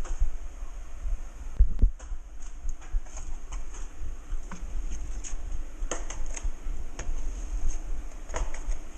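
Steel drywall knife skimming joint compound over a ceiling patch: short scrapes and sharp irregular clicks of the blade, over a steady low hum.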